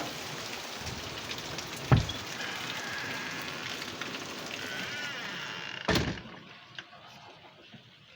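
Heavy rain falling steadily, with a sharp thump about two seconds in. A second heavy thump comes about six seconds in, after which the rain sound becomes much quieter and duller.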